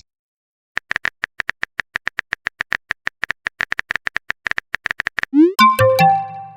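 Rapid, even typing clicks, about nine a second, for roughly four and a half seconds, then a short electronic message-alert jingle: a quick rising sweep followed by a few chiming tones.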